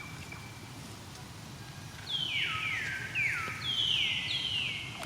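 A run of about five shrill animal calls, overlapping, each sliding quickly downward in pitch, starting about two seconds in.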